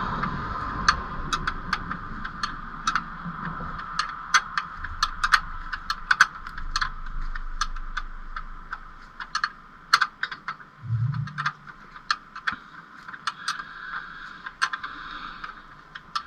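Irregular metallic clicks and clinks of a hand wrench working a stubborn bolt loose under a car, in quick clusters, over a steady background hum, with a brief low thump about eleven seconds in.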